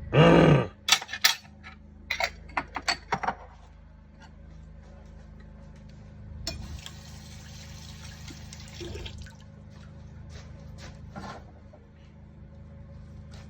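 Salsa being spooned out of a jar: a loud wet splat, then a quick run of spoon clicks and taps against the container. A few seconds later comes a soft hiss lasting about two seconds, over a low steady kitchen hum.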